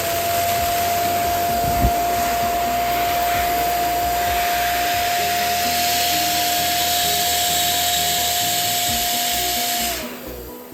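Electric balloon pump running steadily with a hum and an air hiss as a balloon is inflated, then winding down in pitch as it is switched off near the end. There is one small knock about two seconds in.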